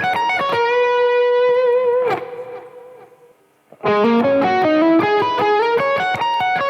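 Electric guitar with an effects-processor tone playing a fast arpeggio lick of alternating F sharp major and E major triads. The lick ends on a long held note with a half-step bend. It dies away and is played a second time about four seconds in.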